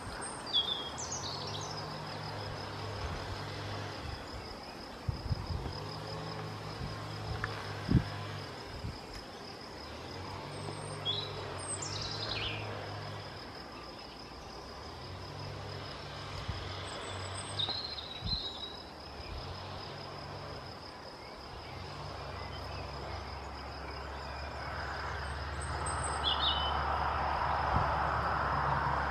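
Outdoor woodland ambience: a few short, scattered bird calls, one a quick falling whistle near the middle, over a steady faint high whine and a low hum that comes and goes every few seconds. A few sharp knocks stand out, the loudest about eight seconds in.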